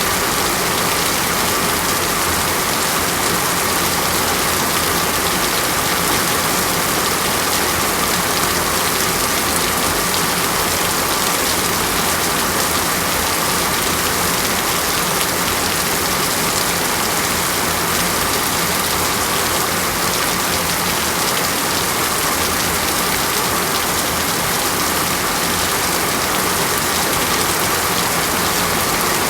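Steady rainfall: an even, unbroken hiss of rain, with no changes throughout.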